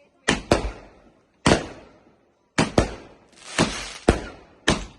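A rapid series of sharp bangs, many in close pairs, each dying away quickly.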